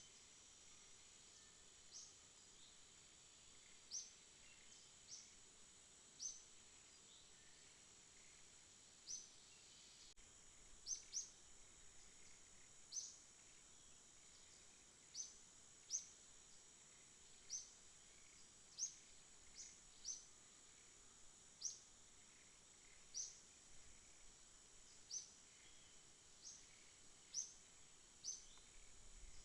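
Night insect chorus: a faint, steady high-pitched drone, with short high chirps repeating every second or two.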